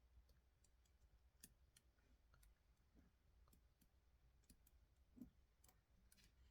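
Faint campfire crackling: scattered, irregular small pops and snaps of burning wood, with one slightly louder pop about five seconds in.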